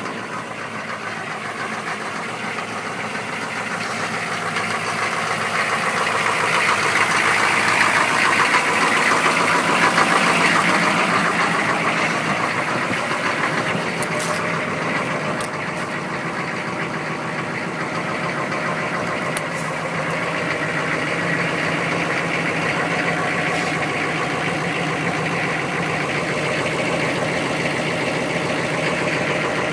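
A cold 6.5-litre turbo diesel V8 idling steadily just after a −15 °C start on glow plugs alone. It grows louder for a few seconds, then settles back to an even idle.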